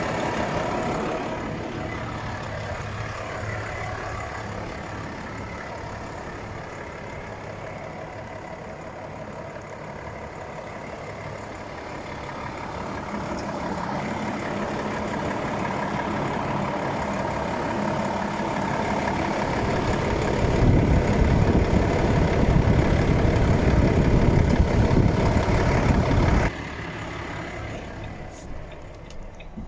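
Volvo FH 500 truck's 13-litre six-cylinder diesel engine idling steadily. It grows louder and fuller for about six seconds from around twenty seconds in, then drops back suddenly.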